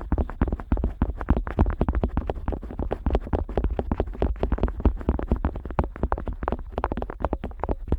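An otoscope rubbing and scraping over the outer ear of a Neumann KU100 dummy-head microphone: a rapid, continuous run of soft scratchy strokes very close to the mic, with a low rumble underneath.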